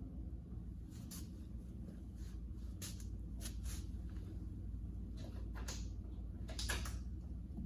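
Scattered light clicks and knocks of hand tools against metal parts, about nine in all with a pair close together near the end, over a steady low hum.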